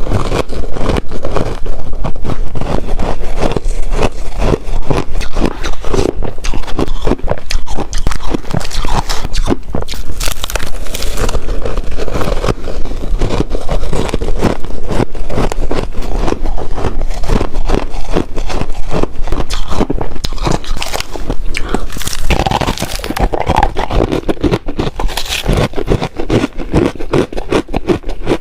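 Ice being bitten and chewed close to the microphone: a dense, continuous run of crisp crunches and crackles, a little quieter over the last few seconds.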